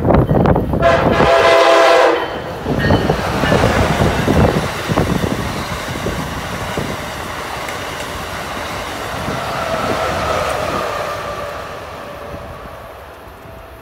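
Amtrak Acela high-speed trainset sounding its horn: one blast ends just after the start and a second, about a second long, follows. The train then passes at speed, its wheels rumbling and clicking over the rails, the sound slowly fading as it moves away.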